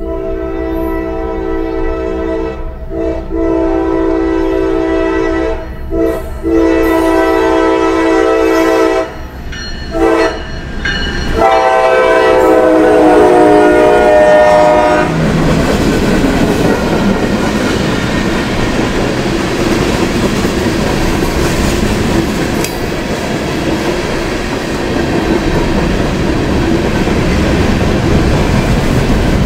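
Diesel locomotive air horn sounding a chord in long blasts with short breaks and one short toot, the last long blast sliding down in pitch as the locomotive goes by, typical of a train sounding for street grade crossings. After that the train's cars roll past with a steady rumble and clickety-clack of wheels over rail joints.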